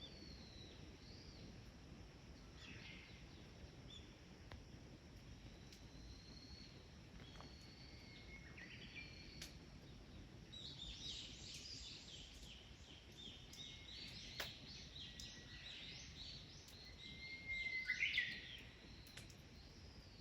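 Wild birds calling: thin whistles at first, then a run of rapid chirps in the second half, loudest near the end. A few faint sharp ticks are heard in between.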